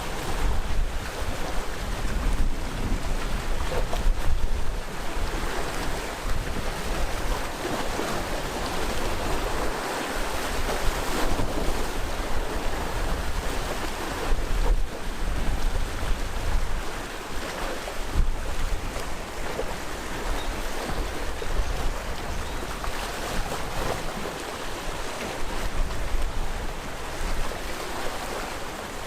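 Sea waves washing against a rocky shore, with the surf rising and falling every few seconds, and wind buffeting the microphone with a low rumble.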